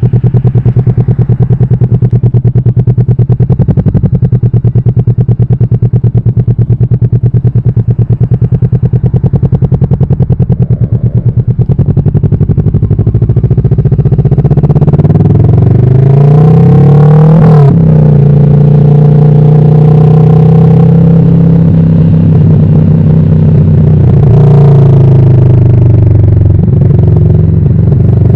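Kawasaki Vulcan S motorcycle's parallel-twin engine running loud, with a low, even pulsing beat. From about halfway through, its revs rise and fall several times.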